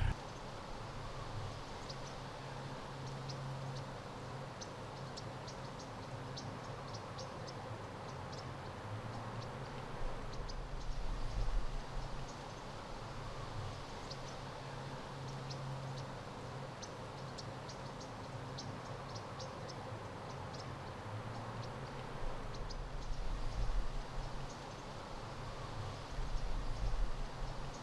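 Outdoor ambience: many short, high chirps scattered throughout over a low rumble that swells twice, about a third and about four-fifths of the way through.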